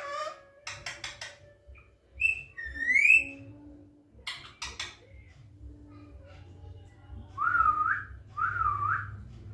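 Pet parrot whistling in separate sliding notes: a rising whistle about two to three seconds in and two wavering whistles near the end, with a few short, sharp sounds in between.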